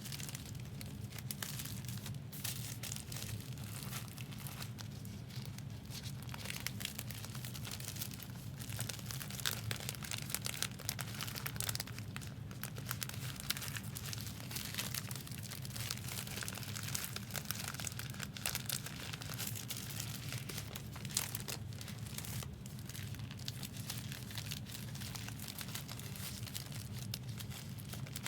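Foil trading-card pack wrappers crinkling and tearing as packs are opened and handled, over a steady low hum.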